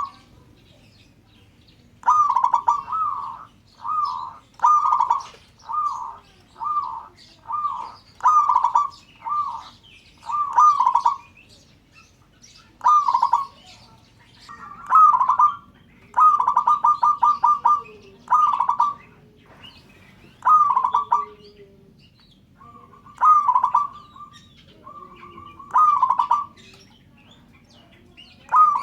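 Zebra dove (perkutut) calling: a long series of short, rolling coo phrases, mostly a second or less apart with a few longer pauses. Fainter high chirps of other small birds sound above it.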